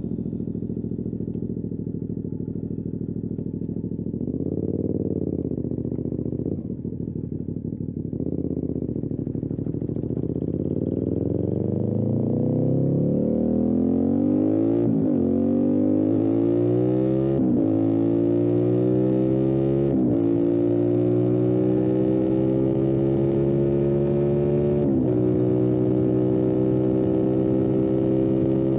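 Motorcycle engine under way: the revs rise and fall briefly, drop off on a closed throttle, then climb steadily as the bike accelerates, with four quick upshifts, each a sudden drop in pitch before the revs climb again.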